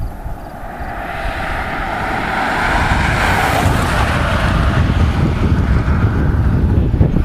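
A strong gust of storm wind that swells over a couple of seconds and slowly eases, rushing noise with wind buffeting the microphone.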